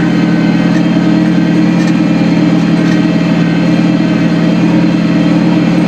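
KIOTI NS6010 compact tractor's diesel engine running steadily under load while pulling a heavy chisel disc harrow through a worked field.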